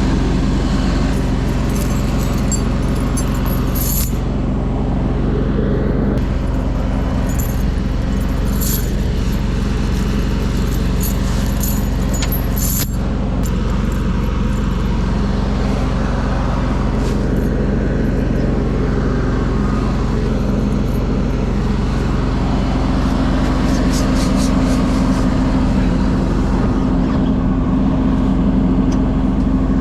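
An engine running steadily at an even speed throughout, with scattered light clicks and scrapes over it.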